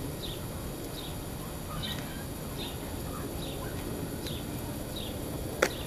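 A small bird chirping over and over, a short high note about every three-quarters of a second with a few lower notes between, over a steady low outdoor rumble. A single sharp click near the end.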